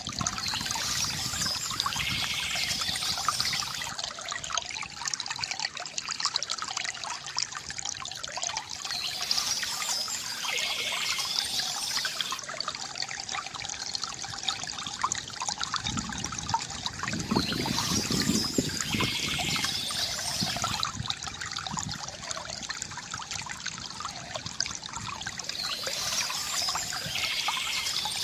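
Water from a bamboo fountain trickling and gurgling steadily, with a brighter, higher stretch coming back about every eight to nine seconds.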